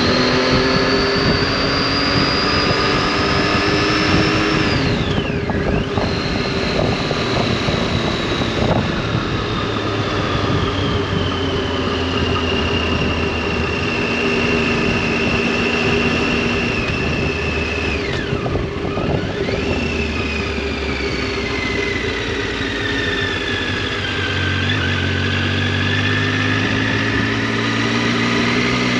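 Triumph Tiger 800 motorcycle's three-cylinder engine and exhaust under way, the engine note climbing slowly, then falling sharply and picking up again twice, about five and nineteen seconds in.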